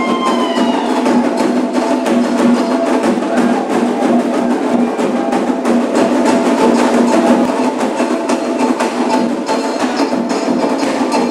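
Candomblé ritual percussion: hand drums and struck percussion playing a fast, dense, unbroken rhythm, with steady held tones underneath.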